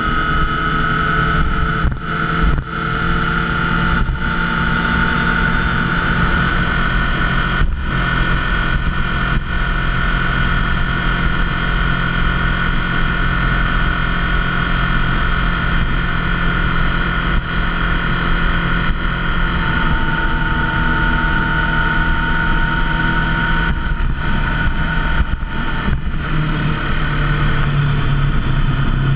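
Motorcycle engine running at a steady cruising speed while riding, with road and wind noise; the pitch holds mostly level, with a few brief dips.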